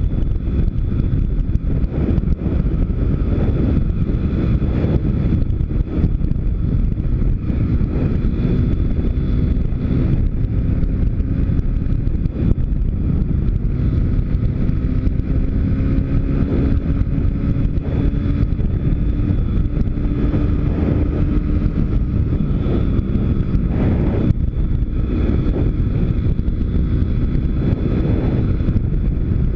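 YX 160 pit bike's single-cylinder four-stroke engine running while riding, its pitch climbing slowly for several seconds in the middle before dropping back, under heavy wind buffeting on the microphone.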